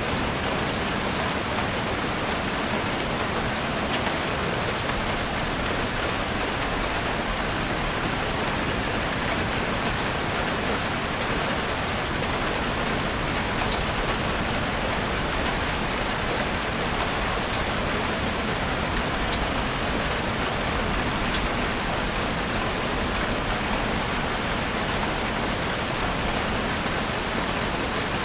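Heavy rain falling steadily on a roof, a dense even hiss scattered with fine drop ticks.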